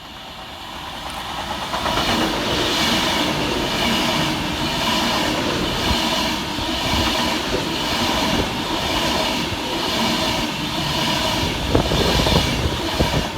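Class 390 Pendolino electric train passing fast through a station. The noise builds over about two seconds into a steady rush, with a regular beat of wheel clatter as the carriages go by.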